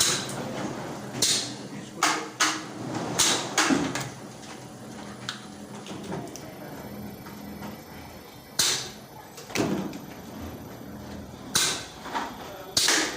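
Factory machinery running with a steady hum, under irregular sharp knocks and clatters, about nine in all.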